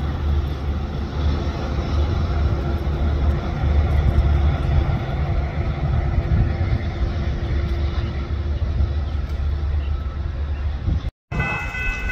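A train rumbling past, a loud low rumble throughout. After a brief cut near the end, a train horn starts sounding a steady chord.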